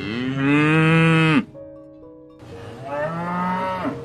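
A cow mooing twice: a long, loud moo that rises and then drops off at its end after about a second and a half, then a shorter, quieter moo about two and a half seconds in. Soft background music runs beneath.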